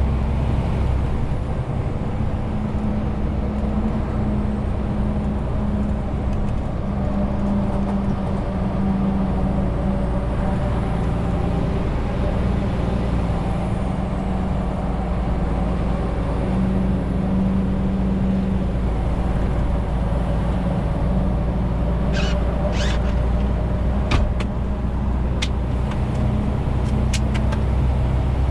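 Renault T520 truck's 13-litre six-cylinder diesel running steadily while driving under a 40-tonne load, its engine note drifting slightly up and down. A few sharp clicks come near the end.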